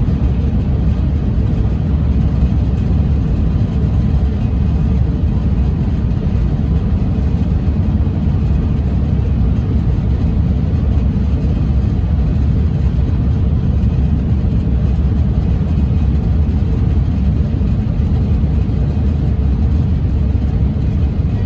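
Shinkansen train running at speed: a steady, loud low rumble that holds level without change.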